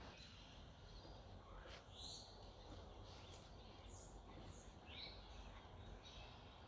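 Faint early-morning birdsong: scattered short high chirps from a few birds, with one falling call about five seconds in, over a steady low background rumble.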